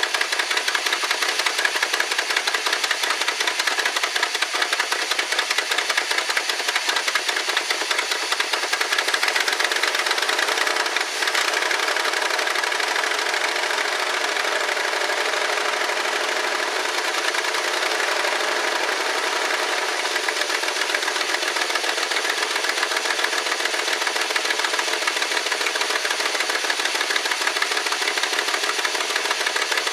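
1969 Lincoln Mark III's 460 V8 running steadily just after its first start since sitting from 1979. It has a slight miss and the ticking of an exhaust leak from a bad passenger-side exhaust gasket: the engine needs a tune-up.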